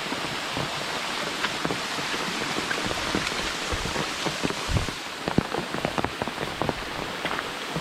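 Steady heavy rain falling, with many individual drops pattering sharply close by.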